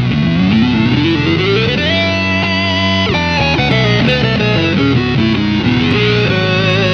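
Electric guitar played through an EarthQuaker Devices Data Corrupter PLL synth/harmonizer pedal, its square-wave fuzz on, giving a thick synth-like tone. The pitch climbs in stair-steps about a second in, holds, then moves through lower notes and climbs again near the end.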